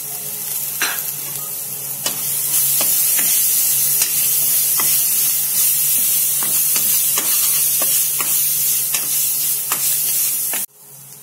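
Chopped onions, ginger, green chilli and garlic sizzling in hot oil in a pan while a spatula stirs them, scraping and clicking against the pan. The sizzle grows louder about two seconds in and cuts off suddenly near the end.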